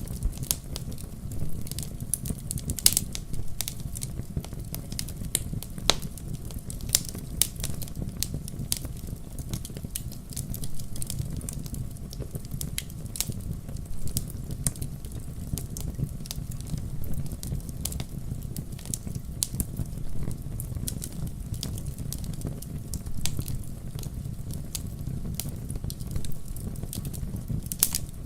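Wood fire crackling and popping in a fireplace: irregular sharp pops and snaps over a steady low rumble of the burning logs.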